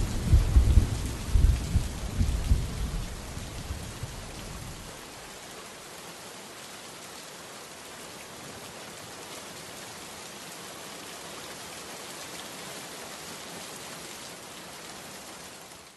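Steady rain hiss, with a low thunder rumble that fades out over the first four or five seconds.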